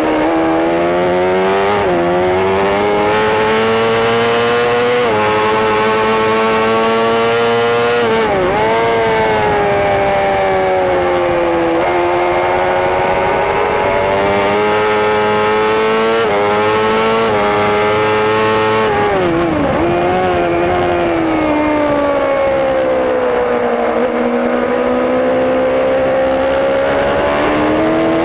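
Racing superbike engine running hard at high revs, heard from on board, its pitch climbing steadily and then dropping sharply at each gear change, several times over.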